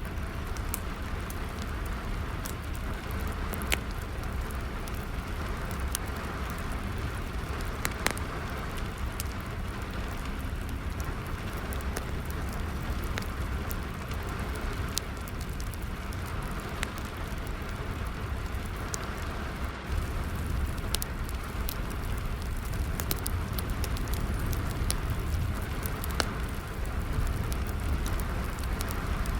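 Steady rain falling, mixed with a wood fire crackling: frequent sharp pops and snaps at irregular intervals.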